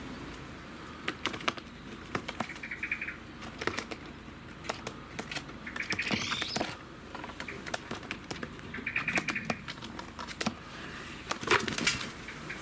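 Young jackdaw flapping and scrabbling, with many short knocks and taps and three short calls.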